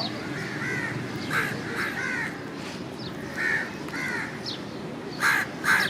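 Crows cawing repeatedly, several short harsh calls with the loudest coming near the end, over a steady low rumble of street noise.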